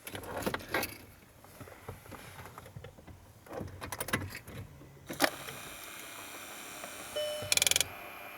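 Clicks and light rattles of handling, then a small electric HVAC flap positioning motor on a VW Golf 5 running under test with a steady whine for a couple of seconds, ending in a short loud buzz near the end.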